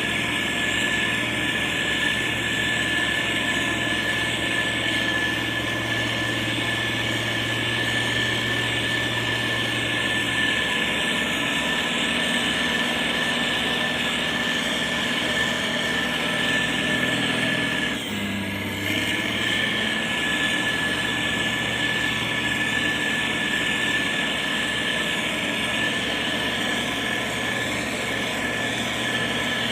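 Motor grader's diesel engine running steadily under work, with a steady high whine over a low hum. About eighteen seconds in it briefly dips and changes note.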